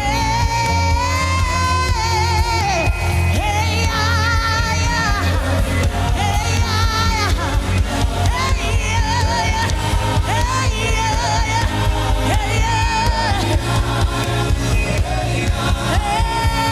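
Gospel worship music: a singer's long, wavering vocal runs with no clear words, over a steady deep bass.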